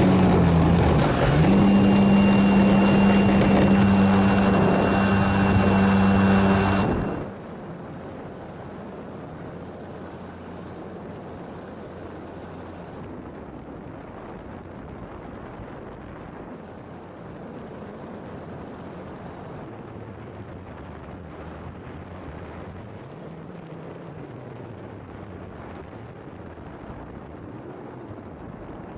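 A radio-controlled model airplane engine runs loud and steady at high throttle. Its pitch dips briefly about a second in, and it cuts off sharply about seven seconds in. After that there is only a quieter steady background with a faint distant engine drone.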